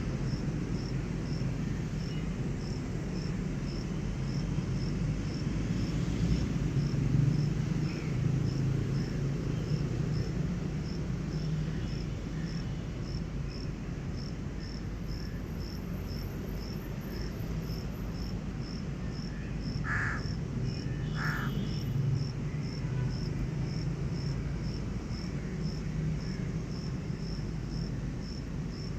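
An insect chirping steadily, about two short high chirps a second, over a steady low rumble.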